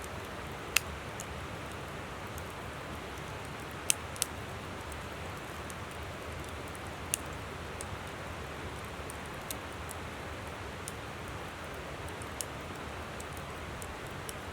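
Wood campfire crackling, with scattered sharp pops, the loudest about a second in and twice near four seconds, over the steady rush of a flowing river.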